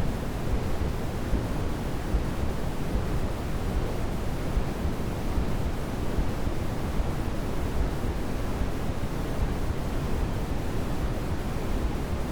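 Steady, unchanging sleep-aid noise: an even hiss heavier in the low end than the top, closer to pink noise than true white noise.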